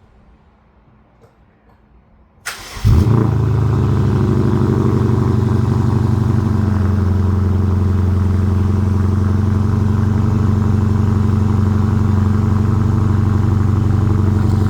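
BMW F10 550i's 4.4-litre twin-turbo V8 starting through a Turner muffler-delete exhaust, partly warm from running a couple of hours earlier: a brief crank about two and a half seconds in, a loud flare as it catches, then a steady idle.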